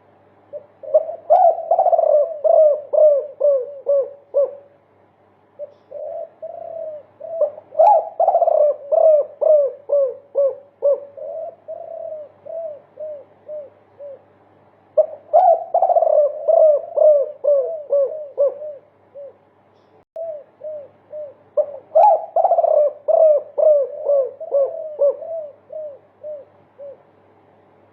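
Spotted dove (derkuku) cooing in the 'multi kuk' style: long runs of rapid repeated coo notes, several a second, in about four runs separated by short pauses.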